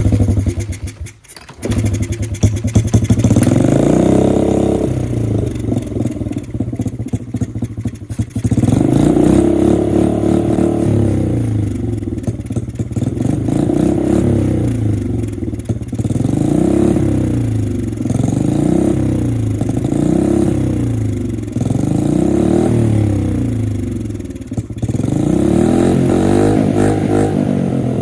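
A 2007 Honda CRF50F's small single-cylinder four-stroke engine catches about two seconds in, then runs and is revved up and back down over and over, about once every two seconds in the second half. The bike sat unused for years, and the owner reckons bad fuel has been holding it back.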